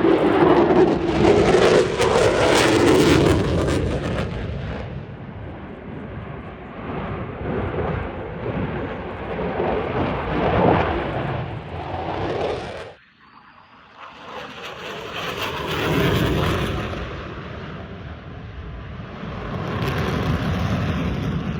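Airplanes flying past, their engine noise swelling and fading in waves. It is loudest in the first few seconds, cuts off suddenly about halfway through, then builds again into another pass.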